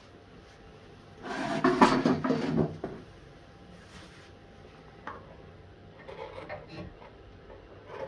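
A loud burst of scraping or rubbing on wood lasting about a second and a half, followed by a few light clicks and a short stretch of softer rubbing.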